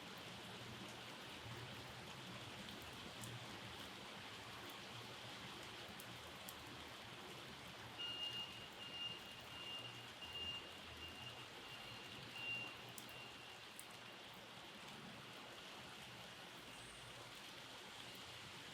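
Steady rain falling, with scattered drops ticking. About eight seconds in, a faint high note repeats evenly for about five seconds, then stops.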